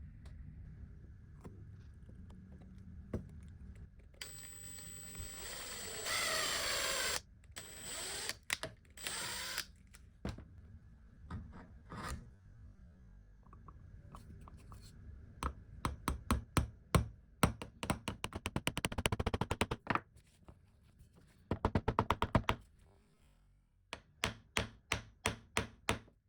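Hand work on a vintage tin-and-cast-iron coffee grinder: a few seconds of scraping or grinding noise early on, then runs of quick, evenly spaced clicks and knocks, about four to six a second, stopping and starting three times.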